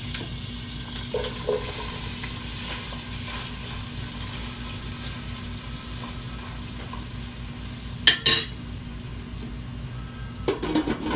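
Chicken breast sizzling steadily as it fries in a pot on a gas stove, with a utensil stirring and knocking against the pot, and a loud clank about eight seconds in.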